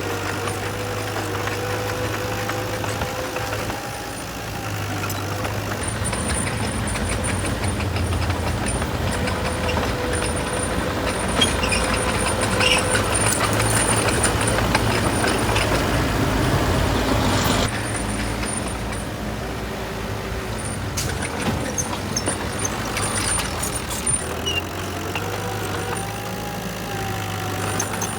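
Heavy diesel earthmoving machines running steadily, with a low engine hum and a faint wavering whine above it. The sound grows louder through the middle and drops off suddenly a little past halfway.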